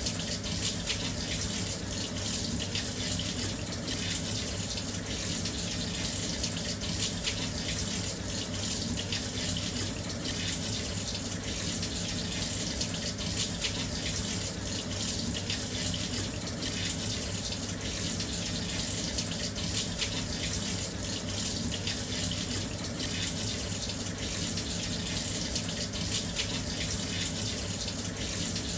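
Washing machine filling with water: a steady, even rush of water pouring into the drum.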